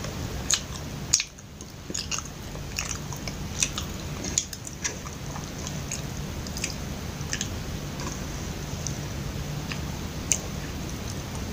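Close-miked chewing of a soft, sticky glutinous-rice cake, a red angkoo kuih with mung bean paste filling: wet mouth clicks and smacks, many in the first few seconds and fewer later, over a steady low hum.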